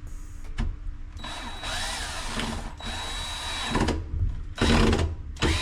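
A power drill drives screws, running in two spells with a steady high whine whose pitch bends as the motor speeds up and slows. Two shorter, louder bursts of driving come near the end. The screws are fastening a support that holds up a section of cast iron pipe.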